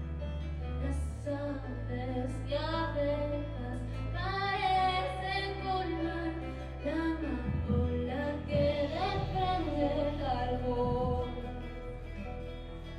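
Small acoustic band playing a song: a woman singing over guitar and double bass, the bass holding long low notes that change every second or two.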